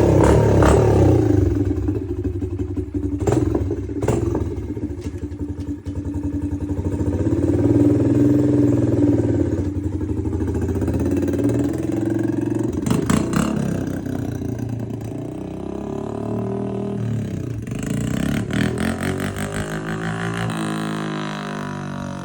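Honda CRF125F dirt bike's single-cylinder four-stroke engine, with its tuned exhaust, revving and accelerating, the engine note rising and falling again and again, with a few sharp clacks. Near the end the pitch drops away.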